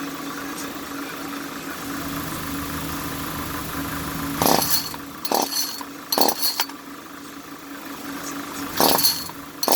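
Recoil starter of an Echo CS-310 two-stroke chainsaw being pulled five times in sharp, short rasping pulls over a steady hum, without the engine catching and running.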